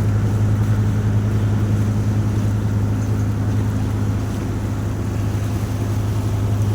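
Boat engine running with a steady low hum, over a constant rush of wind and water noise.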